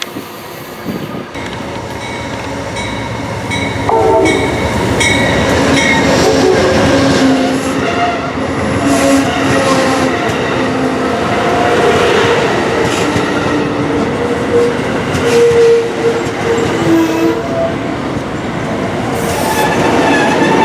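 A train rolling past, much louder from about four seconds in, its steel wheels squealing in shifting steady tones and clattering over the rails.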